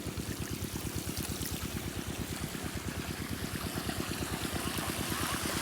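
8 hp diesel pump-set engine running steadily with a fast, even beat, with a hiss of water flowing alongside.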